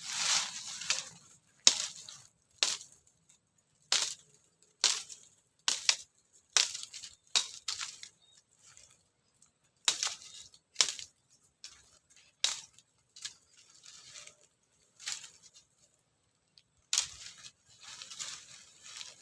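Dry twigs and leaf litter crackling and snapping in sharp, irregular cracks about once a second, with short quiet gaps, while firewood is being gathered.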